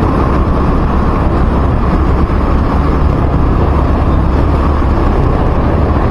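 Steady rumble of a vehicle moving through road traffic, with heavy low wind rumble on the microphone.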